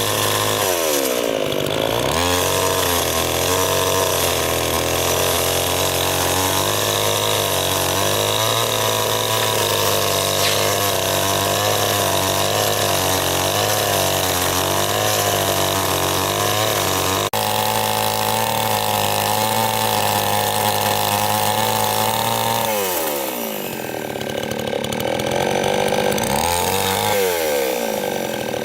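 Two-stroke chainsaw running at high revs, most likely cutting wood. Its pitch sags and recovers about a second in, then falls away for a couple of seconds and comes back, and drops again near the end as the throttle is eased off and squeezed.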